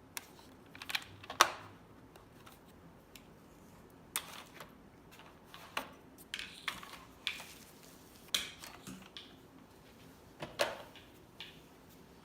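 Scattered sharp clicks, knocks and brief rattles of hard plastic vacuum-cleaner parts being handled, with the motor off. There are about a dozen, the loudest about a second and a half in.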